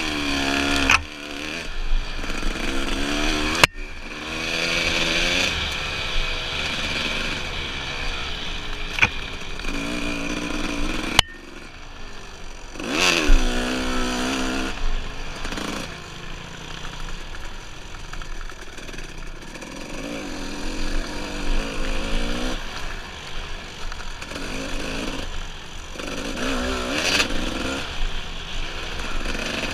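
Dirt bike engine being ridden over trail, revving up and easing off again and again as the throttle opens and closes. There are two sharp knocks, one a few seconds in and one about a third of the way through.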